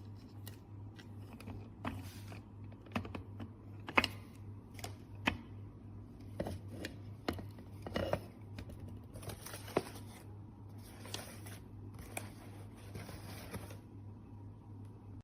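Irregular clicks, knocks and crinkling of plastic parts and packaging being handled, over a steady low electrical hum. There is a sharp knock about four seconds in, and stretches of hissy crinkling in the second half.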